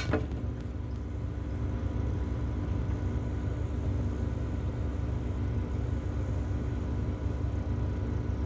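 Steady low rumble with faint constant hum tones over it, unchanging throughout, with a brief sharp knock right at the start.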